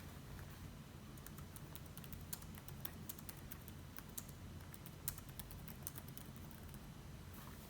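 Typing on a computer keyboard: a run of light, irregular key clicks that starts about a second in and stops shortly before the end, over a steady low hum.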